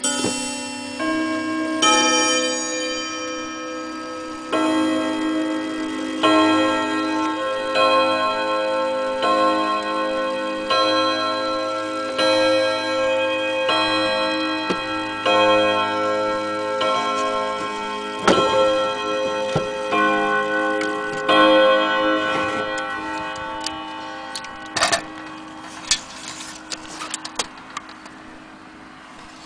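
Antique German Westminster-chime wall clock striking its chimes: a run of ringing struck notes at different pitches, one about every second and a half, that die away about 22 seconds in. A few sharp clicks follow near the end.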